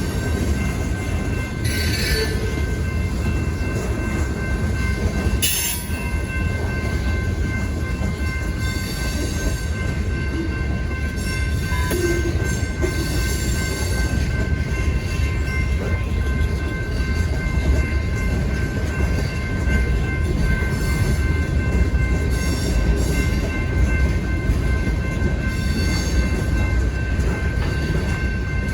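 Freight train rolling past with a steady, loud rumble of wheels on the rails. Thin high squeals and whines from the wheels run over it, with brief sharper squeals every few seconds.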